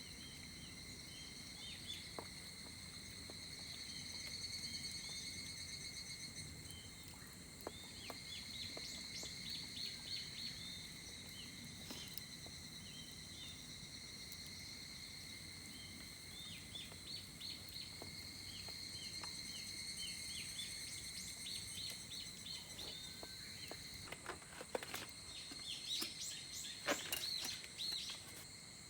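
Outdoor summer ambience: insects droning steadily in several high pitches, with birds chirping over them and a few sharp clicks, more of them near the end.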